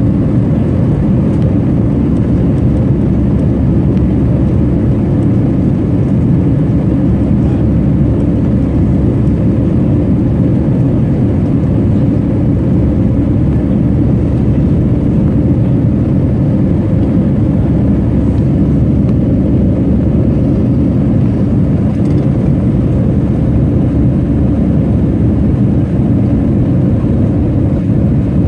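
Jet airliner engines running with a loud, steady, low rumble that holds at one level throughout.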